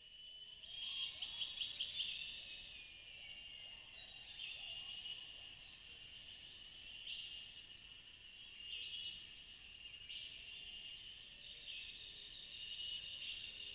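Tropical forest ambience: a steady high insect drone with chirping calls laid over it, and a quick stuttering pulse about a second in.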